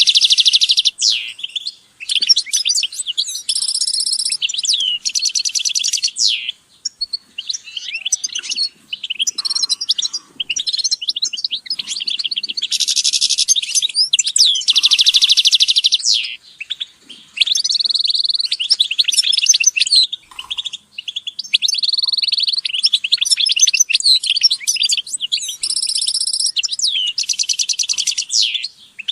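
A group of European goldfinches singing and calling: rapid liquid twittering broken by repeated buzzy trills, each about a second long.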